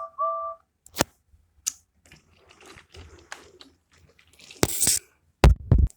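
A short two-note train whistle, held steady and stopping about half a second in, followed by scattered clicks and knocks, with a louder rattling knock near the end.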